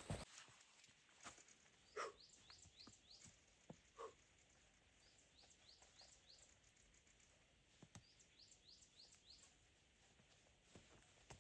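Faint bird chirping: runs of short high chirps repeated through the quiet, with a few soft knocks, the clearest about two and four seconds in.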